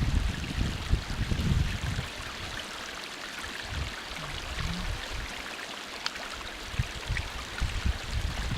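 Small stream of acid mine water flowing and trickling over its bed. Wind buffets the microphone for about the first two seconds.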